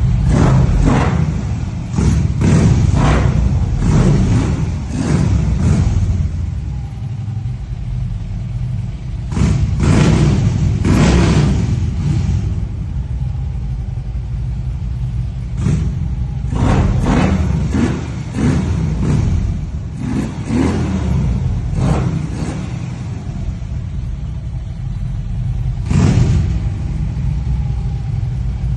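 Harley-Davidson V-twin motorcycle engine idling with a steady low rumble, revved again and again with short throttle blips that come in clusters, with longer stretches of plain idle in between.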